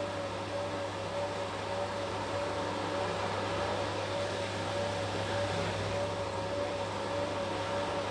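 Washing machine running with a steady motor hum and a whine that wavers slightly in pitch.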